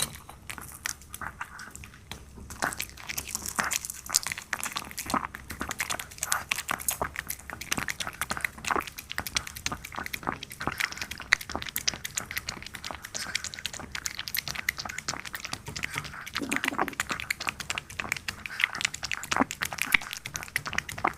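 A puppy chewing and eating its food, a run of many quick, irregular clicks of chewing.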